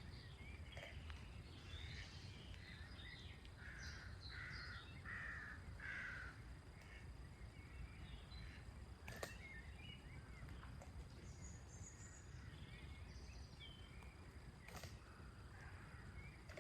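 Faint outdoor birdsong: a bird gives a run of about five harsh calls in quick succession a few seconds in, among scattered smaller chirps, over a low background rumble.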